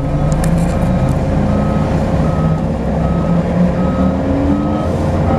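Volvo B10BLE bus's engine running with a low hum, under an electronic warning beeper sounding about once every three-quarters of a second. A short rising whistle comes in about four seconds in.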